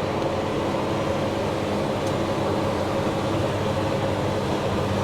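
Cummins diesel engine of a self-propelled sprayer running at a steady speed, heard from inside the cab as an even, unchanging drone. There is a faint click about two seconds in.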